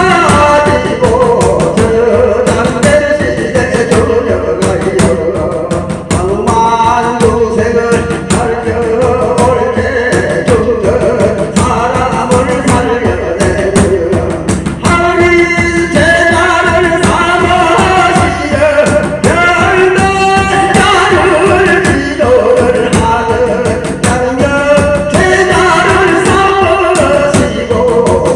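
Korean shamanic scripture chanting (gyeongmun): a sung, melodic chant over a quick, steady drumbeat.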